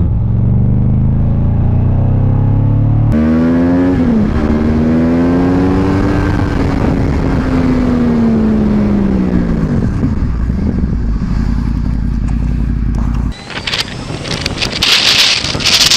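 Motorcycle engines across edited clips: a steady engine note, then after a cut an engine whose pitch climbs and then falls away. Near the end, loud wind buffeting on the microphone.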